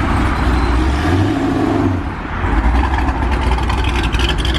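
A car engine revs loudly under acceleration, drops back briefly about two seconds in, then builds again.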